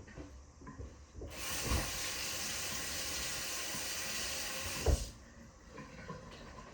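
Kitchen tap running for about four seconds while a spoon is rinsed under it, then turned off, with a light knock as it stops.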